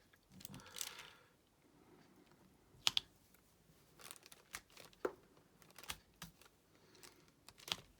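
Scattered small clicks and taps of a diamond-painting pen pressing resin drills onto the sticky canvas, with a soft crinkle of plastic near the start. The sharpest pair of clicks comes about three seconds in.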